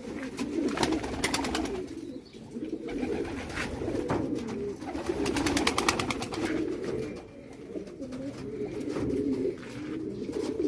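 Domestic pigeons cooing continuously in a loft, several birds overlapping, with scattered sharp clicks among them.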